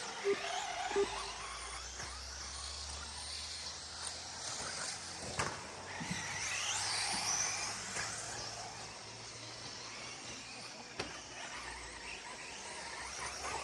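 Radio-controlled 4x4 short course trucks racing on a dirt track: motors whining up and down with tyre and chassis noise. There is a sharp knock about five seconds in.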